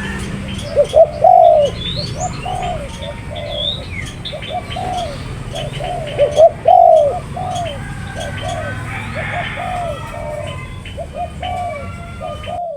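Spotted dove (tekukur) cooing over and over in short phrases, with thin high chirps of small birds over it and a steady low hum beneath.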